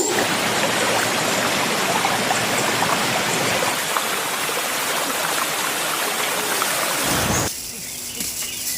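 Steady rush of running water, stopping abruptly about seven and a half seconds in.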